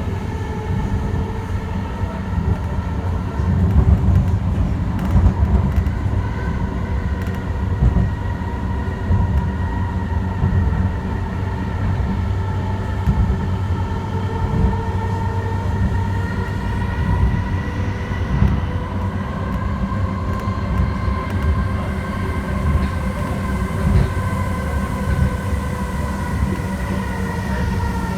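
Interior of an Alstom Citadis Spirit light-rail train running between stations: a steady low rumble of wheels on the track with an electric traction-motor whine over it. The whine's pitch rises slightly past the middle and eases toward the end.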